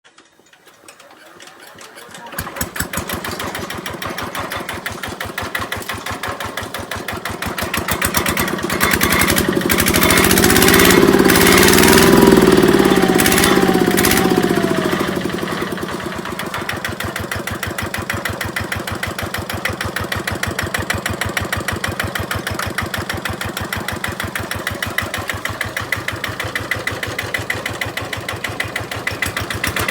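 Kubota RT90 Plus single-cylinder diesel engine on a walking tractor, running with a steady, even beat. It is revved up about 8 seconds in, held high with the pitch rising and falling, and eased back down to a steady idle around 16 seconds.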